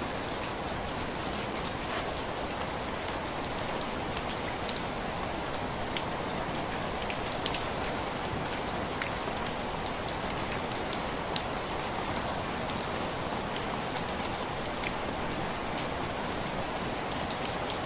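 Steady rain hitting window glass, a constant hiss with many separate drops ticking sharply against the pane, a few louder single taps among them.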